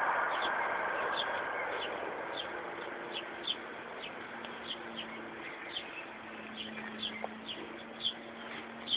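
A small bird chirping repeatedly in short, high, slightly falling chirps, about two a second, over a faint steady hum.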